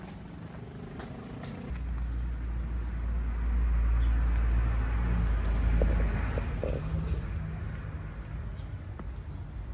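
A motor vehicle driving past on the street, its deep engine rumble and tyre noise swelling about two seconds in, loudest mid-way, then fading away.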